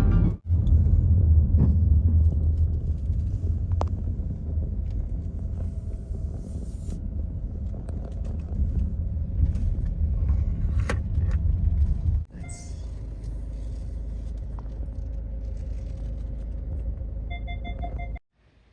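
Steady low rumble of a car on the move, broken by two abrupt cuts, and quieter after the second one. A short run of beeps sounds near the end.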